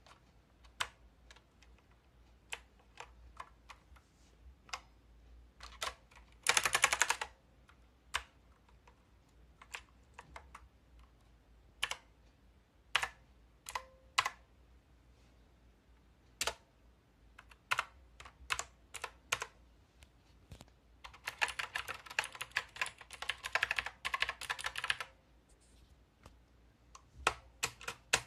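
Hansung Gtune MKF30 mechanical keyboard with clicky blue switches, keys pressed one at a time with pauses between. There is a short quick run of presses about a quarter of the way in, and about four seconds of rapid typing in the last third.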